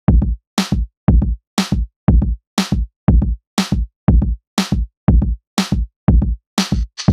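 Electronic background music with a drum-machine beat, about two strong hits a second, heavy bass drum, and a cymbal-like wash coming in near the end.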